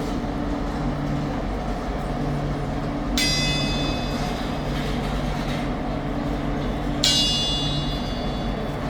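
Steady hum of a train standing at a station, broken twice, about four seconds apart, by a bright metallic ring that starts sharply and fades over a second or two.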